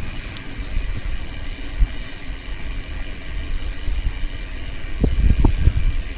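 Low rumbling road and wind noise from riding a bicycle, with a few sharp knocks and rattles about five seconds in.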